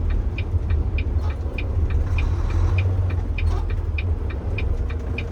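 Tractor-trailer's diesel engine running with a steady low rumble, under the regular clicking of the turn signal, about three clicks a second, set for a right turn.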